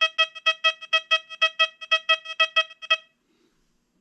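XP Deus 2 metal detector giving its target tone over a 1932 Canadian one-cent coin: a fast series of short beeps, all at the same pitch, about four or five a second, stopping about three seconds in.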